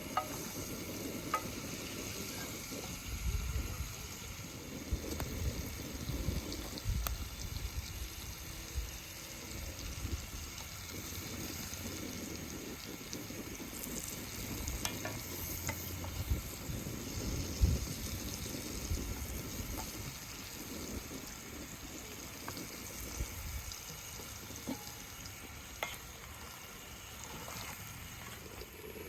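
Food frying in a pan on an outdoor burner, a steady sizzle with scattered short clicks of a utensil being stirred.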